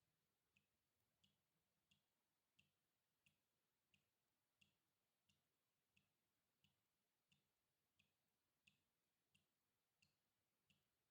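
Very faint water drops falling one at a time in an even rhythm, about three drips every two seconds.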